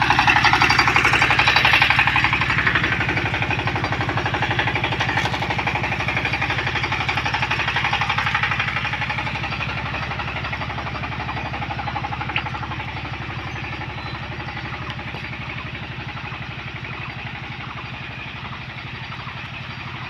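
Engine of an earth-digging machine running with a fast, even pulse, slowly growing quieter.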